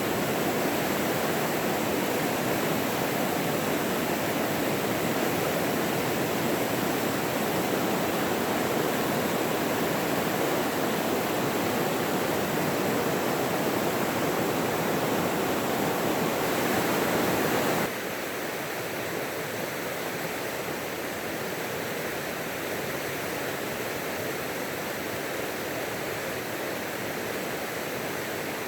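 Running water rushing steadily. Well into the sound it drops suddenly to a quieter, thinner rush.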